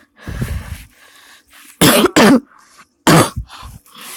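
A person coughing and clearing their throat: a softer rasp near the start, then three short, loud coughs about two to three seconds in.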